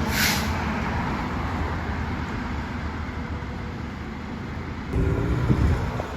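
Roadside traffic: a passing truck's engine and road noise slowly fading away, then another vehicle's engine coming up about five seconds in.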